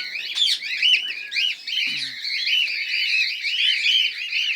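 A flock of cockatiels and other small parrots chattering and chirping continuously, many short overlapping calls at once.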